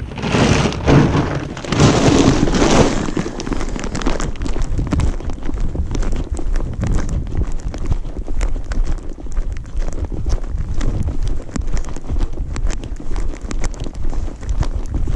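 Wind buffeting the microphone, with rustling, clicking and thumping handling noise throughout; it is loudest in the first three seconds.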